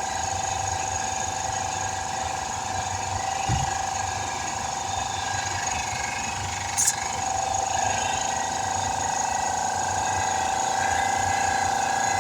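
Portable air compressor running steadily with a whine while it inflates a car tire, with a short sharp click just past halfway.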